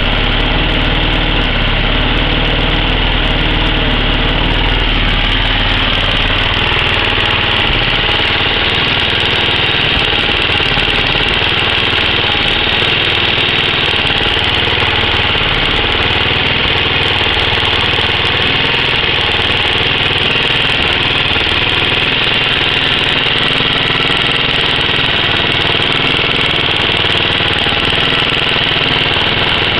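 Warm car engine idling steadily after several minutes of running, with a noise that the owner places toward the top of the engine.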